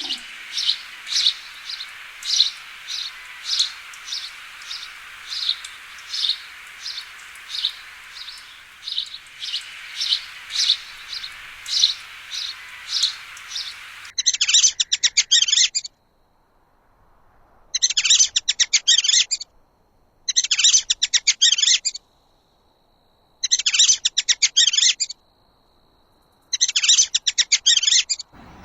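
Bird calls. First a short, high note repeated about twice a second. Then, about halfway through, rapid high trills in five separate bursts.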